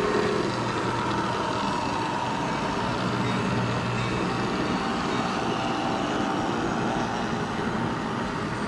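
A diesel train running past with a steady rumble and low hum, a horn blast cutting off about half a second in.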